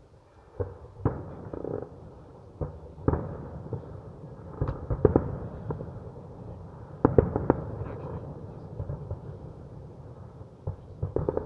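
Fireworks exploding: an irregular series of sharp bangs and pops with rolling echoes, several in quick succession about five and seven seconds in.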